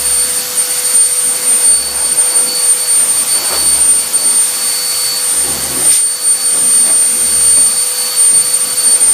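Hair dryer running steadily: a constant loud blowing rush with a thin, steady high whine.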